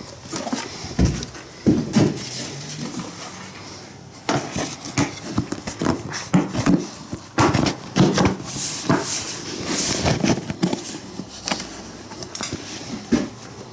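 Irregular metallic clinks and knocks of hand tools and parts being handled while working on a motorcycle.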